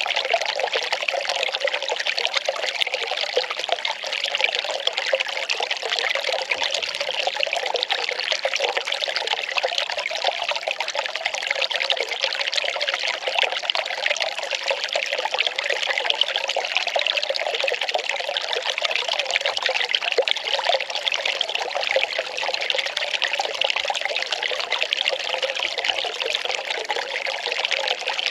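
Well water pouring and trickling steadily, an even splashing flow that does not change.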